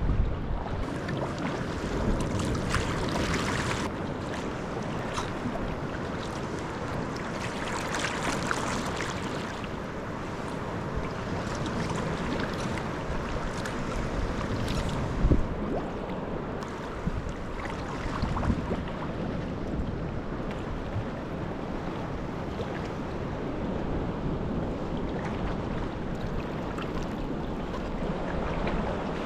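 Sea kayak under way in a choppy swell: water washing and splashing around the hull and paddles at irregular moments, with wind buffeting the microphone.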